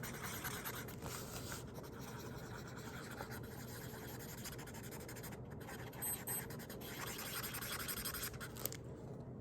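Marker scratching and rubbing across paper in short colouring strokes, faint, over a steady low hum.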